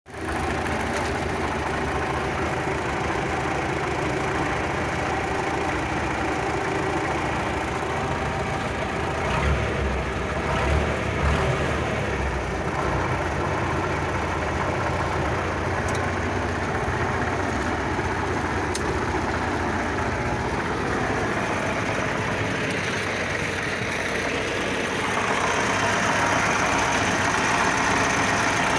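D-65 four-cylinder tractor diesel running steadily with a knock, which the owner puts down to the injection pump (ТНВД). A few heavier low thumps come around the middle, and the engine gets slightly louder near the end.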